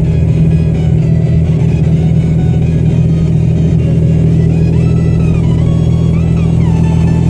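Steady low drone of a Chevrolet Tahoe driving, heard from inside the cabin, with the car radio playing faintly over it.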